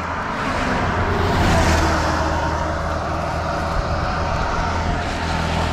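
A vehicle engine running steadily under a rushing noise, with a low hum throughout.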